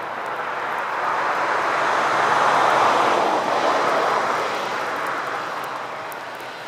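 A vehicle driving past, its tyre and engine noise swelling to a peak about halfway through and fading away.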